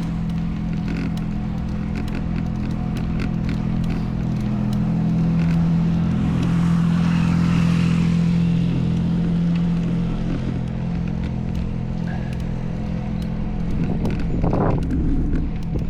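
A motor vehicle's engine humming steadily on the road beside a racing bicycle. The rushing noise swells and fades in the middle, and light clicks come now and then.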